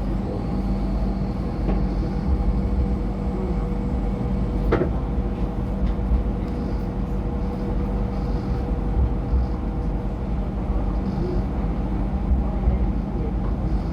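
MTR Light Rail car running along the track, heard from on board: a steady rumble with a low motor hum and a held tone, and a single sharp click about five seconds in.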